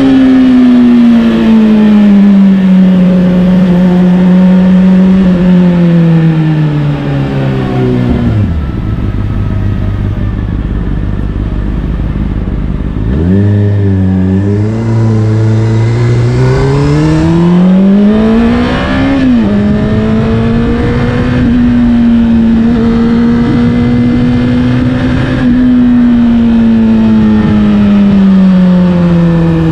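Honda CBR600RR's inline-four with an Akrapovic exhaust under way. The engine note eases off and falls in pitch, drops to a low idle for a few seconds, then pulls away with rising revs, dips sharply once at an upshift, holds steady and falls away again near the end.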